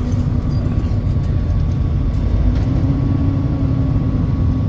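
Semi-truck on the move, heard from inside the cab: a steady low engine and road rumble with a faint constant hum over it.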